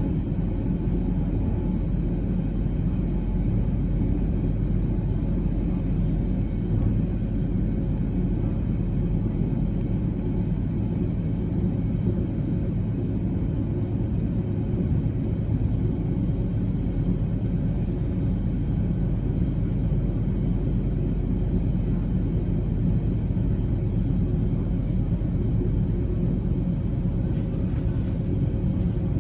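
Steady low rumble of a running vehicle, unchanging throughout, with a faint hum over it.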